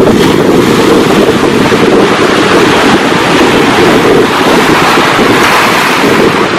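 Loud ocean surf breaking and washing in, with strong wind buffeting the microphone; the wash swells in the upper hiss toward the end.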